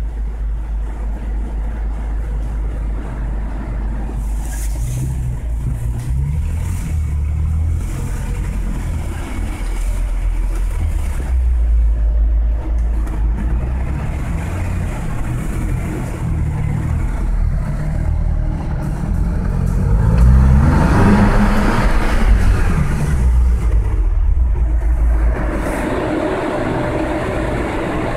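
BMW M6's twin-turbo V8 running, heard from inside the cabin: mostly a steady low idle with a few light revs, and one longer rev about three quarters of the way through that climbs and then falls back.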